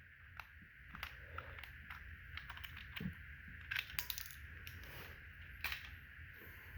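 Faint, irregular small clicks and scrapes of a screwdriver unscrewing the plastic battery cover on a battery-powered toy train locomotive, a few of them louder.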